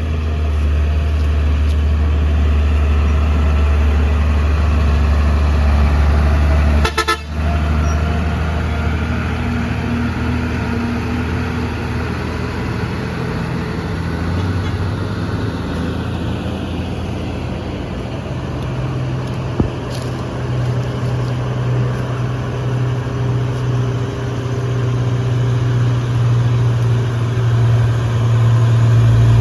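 Heavy diesel truck engines labouring up a steep grade under load: a deep, steady drone that breaks off briefly about seven seconds in and runs on at a slightly higher pitch from around halfway.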